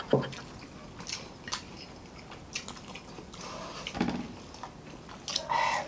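People chewing and biting food close to the microphone, with scattered short mouth clicks and smacks and a few louder ones about four seconds in and near the end.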